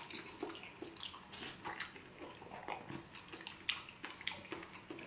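A person chewing a mouthful of seafood paella close to the microphone: soft, irregular mouth smacks and clicks.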